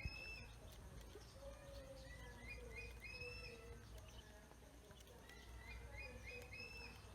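Faint bird calls: a short run of rising chirps, heard three times about three seconds apart.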